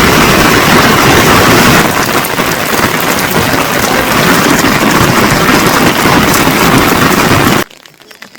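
Heavy rain pouring, a loud steady hiss that eases a little about two seconds in and cuts off suddenly near the end.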